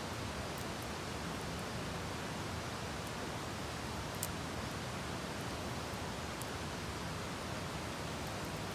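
Steady, even hiss of outdoor background noise, with a few faint sharp clicks, the clearest about four seconds in.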